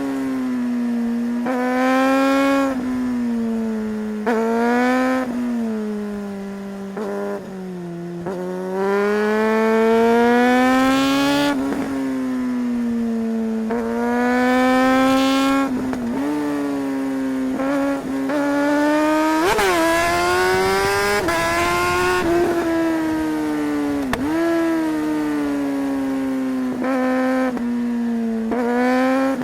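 Suzuki GSR 600's inline-four engine revving hard as the bike accelerates through the gears. Engine speed swings up and down, with several short, sharp breaks in the note, typical of quickshifter upshifts.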